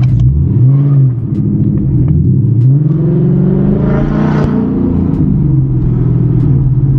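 Ford Mustang GT's V8 engine heard from inside the cabin, revving up as the car pulls away: a short climb about a second in, then a longer rise in pitch peaking about four seconds in, after which it eases off to a steady low drone.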